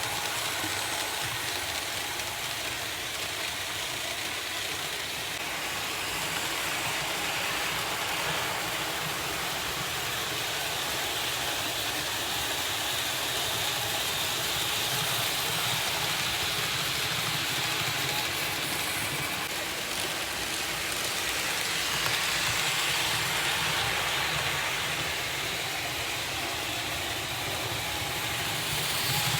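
Märklin H0 model train running on the track: a steady whir of the locomotive's motor and the rumble of wheels on the rails, swelling and easing gently.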